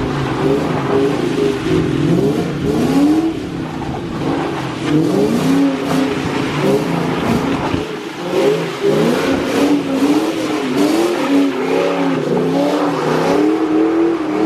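Car engine revving hard up and down again and again while the car is drifted. The pitch rises and falls about once a second.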